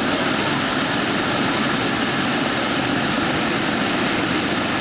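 Propeller aircraft engine running steadily, heard as a constant, even drone with a lot of hiss.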